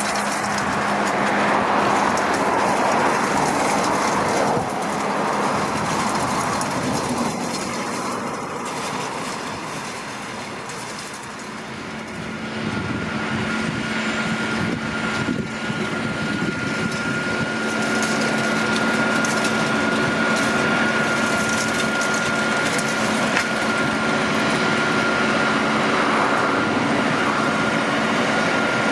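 JCB Fastrac 4220 tractor running under load while its Krone Swadro rotary rake rows up hay, a steady mechanical rumble and rattle. It dips a little about ten seconds in, then comes back up with a steady high whine added.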